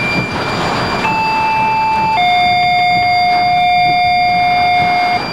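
Two-tone sequential radio page: one steady tone for about a second, then a lower tone held for about three seconds, over steady vehicle noise.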